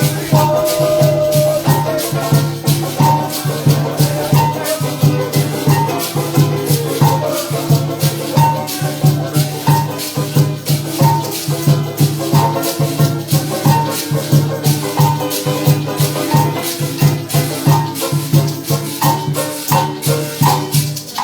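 Live parang music played without singing: maracas shaken in a fast, steady rhythm over a repeating bass line and a short melodic figure that recurs about every second and a half.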